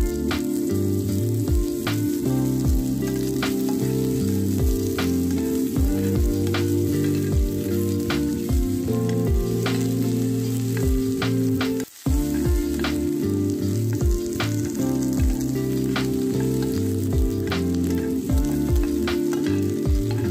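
Onion, garlic and butter sizzling in a frying pan as a spoon stirs them, under background music with a steady beat. The sound drops out for a moment about twelve seconds in.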